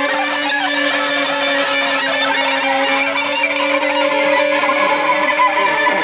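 Free-improvised music: a guitar played with objects, a dense, noisy texture over a steady held drone tone.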